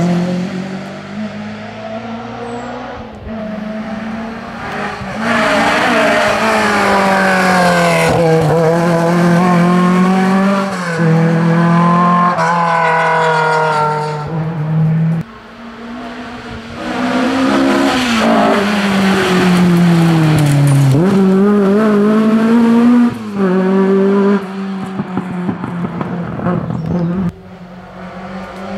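Historic rally cars driven hard on a special stage: engines revving high and dropping repeatedly through gear changes and lifts off the throttle, with tyre squeal.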